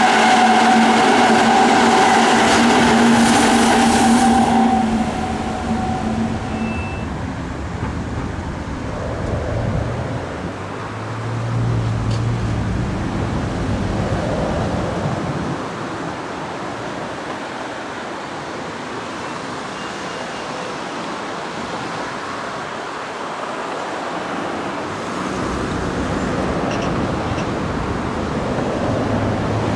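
Electric commuter train running past on the line, its running sound with several steady tones fading away over the first five seconds. After a quieter stretch of steady outdoor noise, a Hokuso 9100-series electric train approaches, and its sound grows louder near the end.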